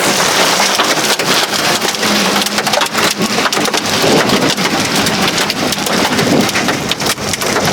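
Heavy rain pelting down: a loud, steady rush with many sharp drop impacts.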